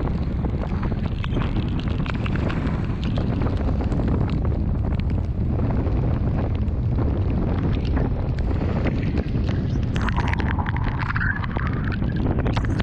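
Strong thunderstorm wind buffeting the microphone in a heavy, steady rumble, dotted with many sharp ticks, and a brief higher-pitched sound about ten seconds in.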